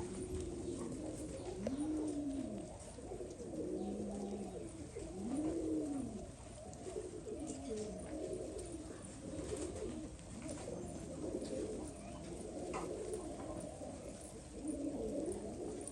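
Domestic pigeons cooing in a loft, many low, arching coos overlapping one another without a break.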